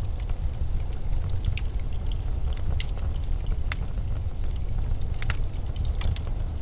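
Low, steady rumble of blizzard wind, with scattered small crackles and ticks over it.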